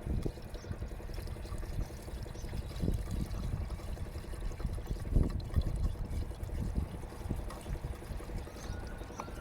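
Water being poured from a litre container into a car's windscreen washer reservoir, in uneven gushes that are strongest about three and five seconds in.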